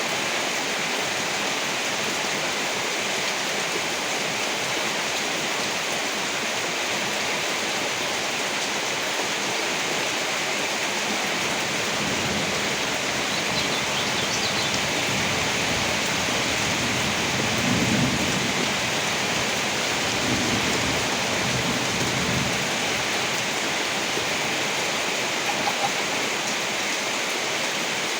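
Steady rain hissing. In the middle a long, low roll of thunder swells, peaks about two-thirds of the way in, then dies away.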